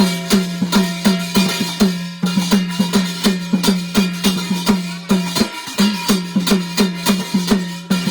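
Instrumental break in Garhwali jagar folk music: a steady drum rhythm of about four strokes a second over a held drone note.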